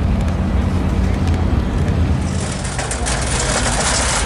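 A car engine running with a steady low rumble. A little over two seconds in, the sound changes abruptly to louder, hissy traffic noise.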